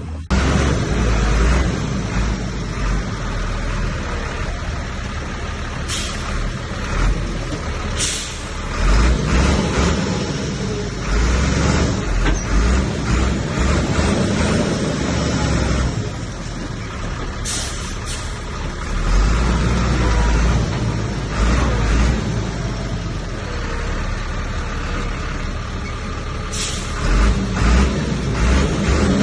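Komatsu bulldozer's diesel engine running heavy and steady under load, swelling and easing every few seconds as it pushes, with a few short hissing bursts.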